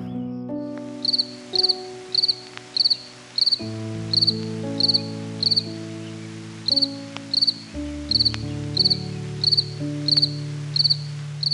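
Short, high insect chirps, each a quick double pulse, repeating steadily about twice a second, over background music with slow held notes.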